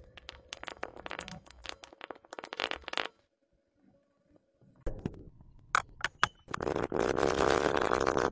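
Slime being squished and worked by hand: a quick run of sticky crackling pops for about three seconds, a short pause, then scattered pops and, near the end, a stretch of continuous squelching.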